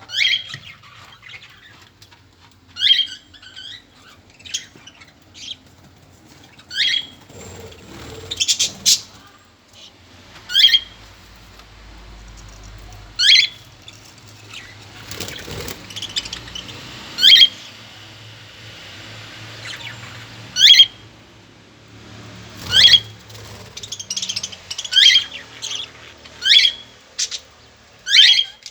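Birds calling with short, sharp chirps that drop in pitch, repeated every second or two, with a few soft fluttering thumps in between.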